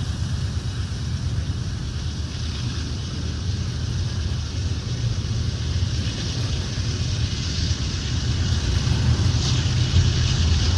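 Steady low rumble of a moving train, with an even hiss above it that grows slightly brighter in the second half.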